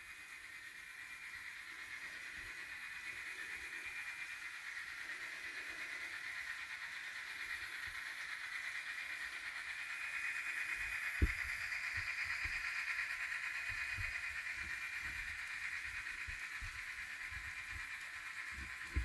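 Model train running on a layout: a steady high whine that grows louder towards the middle, with low clicks of the wheels over the track and a sharper click about eleven seconds in.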